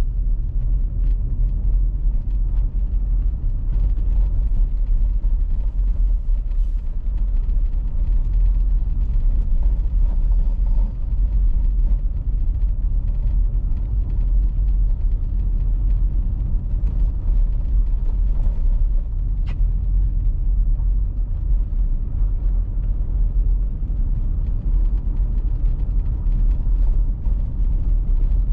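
Car driving steadily, a low, even rumble of engine and tyre noise on a winter road with a few faint ticks.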